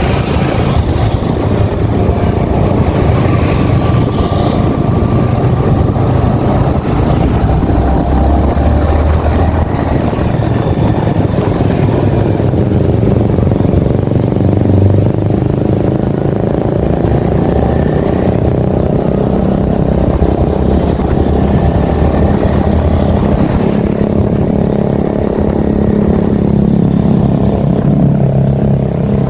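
Yamaha XSR 155's single-cylinder engine running steadily while the motorcycle is ridden along, its note rising and falling a little with the throttle.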